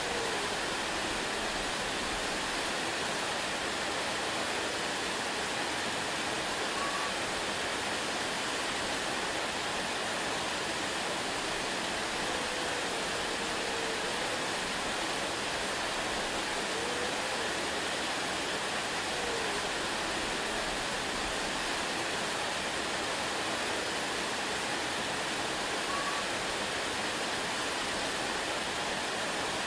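Waterfall: a steady, even rush of falling water with no change in level, and a few faint short wavering notes near the middle of it.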